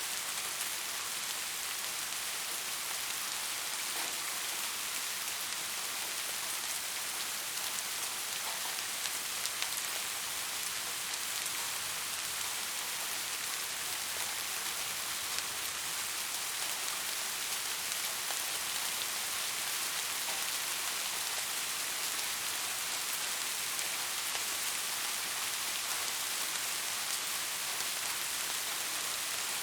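Steady rain falling: an even hiss with scattered drop ticks, a few standing out briefly.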